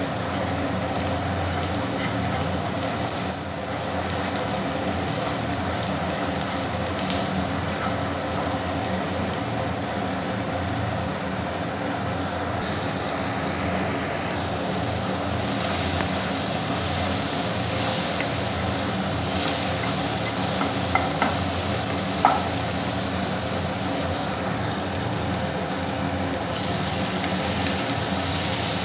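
Corn, peanuts and onion sizzling in a nonstick kadai as they are stirred with a plastic spatula, over a steady hum. A few light spatula taps on the pan come near the end.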